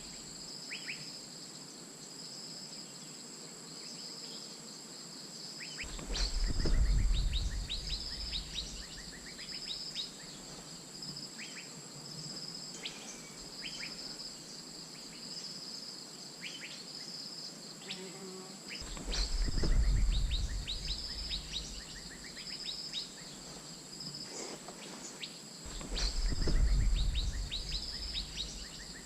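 Asian fairy-bluebird calls, short sharp falling whistled notes scattered every second or so, over a steady pulsing drone of insects. Three times a louder low rumble swells and fades.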